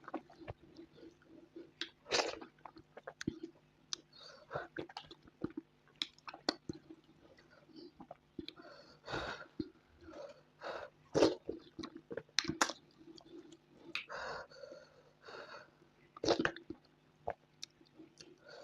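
Mouth sounds of someone eating peanut soup and starch: chewing and smacking at irregular intervals, with a few longer bursts.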